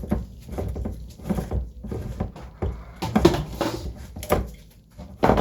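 Irregular knocks and clatter of kitchen utensils and dishes being handled.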